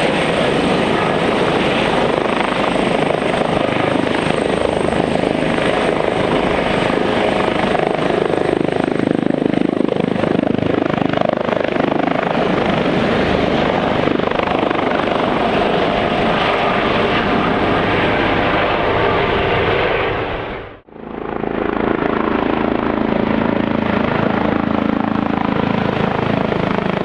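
Airbus H145 twin-turbine helicopter running: a loud, steady rotor and turbine noise with a faint high whine, dropping out for a moment about two-thirds of the way through and then coming straight back.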